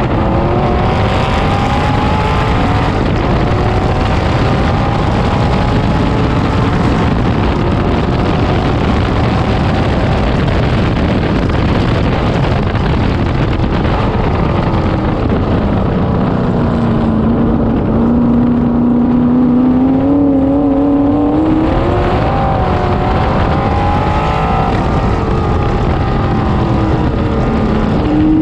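A 1966 Corvette racecar's V8 engine, heard from the open cockpit at racing speed. Its pitch climbs under acceleration and drops on lifts and downshifts several times.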